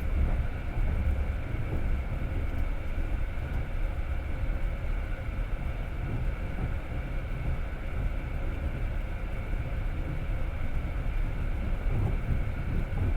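Passenger train running, heard from inside the carriage: a steady low rumble of the wheels on the rails, with even running noise throughout.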